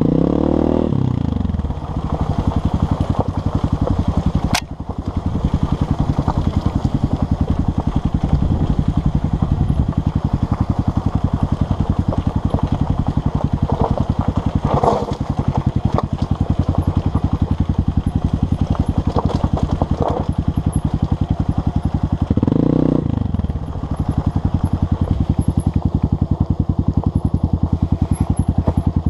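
Honda CRF230M's single-cylinder four-stroke engine running steadily as the bike rides along a gravel trail, revving up and back down near the start and again about three-quarters of the way through. A sharp knock sounds about four seconds in.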